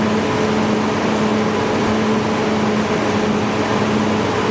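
1998 BMW 540i's 4.4-litre V8 idling steadily with a slight misfire on cylinder 7, whose injector is starved of voltage by a poor contact in its connector.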